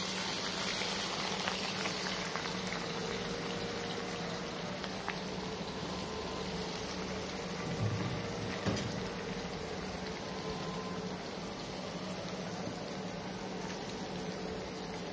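Sliced onions frying in hot oil in a pot: a steady sizzle, with a faint low hum beneath and a light knock a little past the middle.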